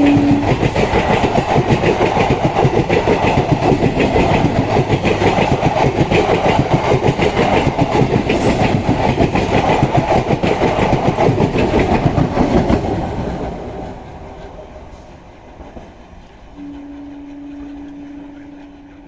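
An electric local train passing close by, its wheels clattering rapidly and continuously over the rail joints, then fading away after about thirteen seconds. The end of a horn blast is heard right at the start, and a faint steady horn note begins near the end.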